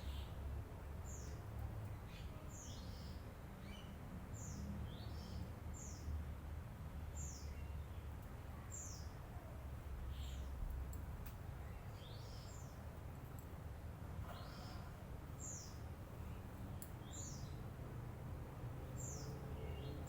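Lovebird chirping: short, high chirps that slide downward, repeated about once a second, over a low steady rumble.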